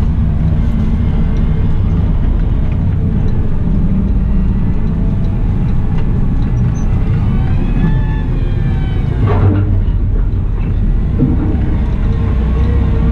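Caterpillar 972M XE wheel loader running steadily with a low engine rumble. A whine rises and falls in pitch about eight seconds in, followed by a single thump.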